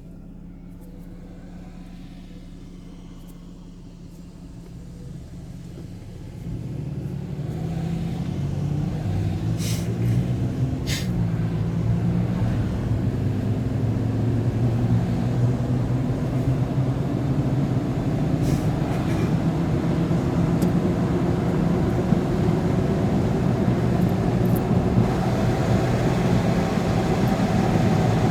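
Vehicle engine idling quietly, then about six seconds in it pulls away and accelerates, its engine note climbing in steps through the gears as road noise builds. Two short clicks are heard about ten and eleven seconds in.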